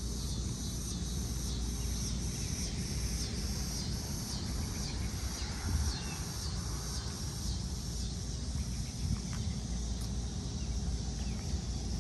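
Night insects chirping in a steady repeated pattern, over a low steady rumble.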